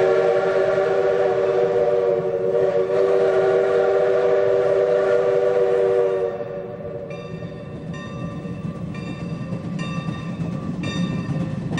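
Train wheels squealing against the rails on a curve, the sound called 'singing': a loud steady squeal of several tones at once for about six seconds, then quieter, higher squeals in short chirps about once a second over the rumble of the cars.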